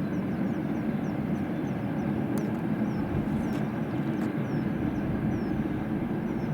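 Wind buffeting the camera microphone: a steady low rumble with no breaks, with faint short high chirps throughout.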